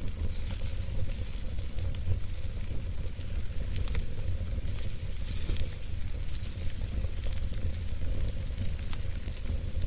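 Wood fire burning in a fireplace, a steady hiss and low rumble with scattered small crackles and pops.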